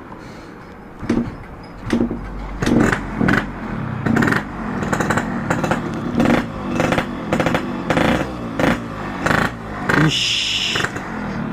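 Yamaha RX-King's two-stroke single-cylinder engine through a Boban C33 aftermarket exhaust, revved in a string of sharp throttle blips, about one and a half a second, each rising and falling in pitch. A brief high hiss near the end.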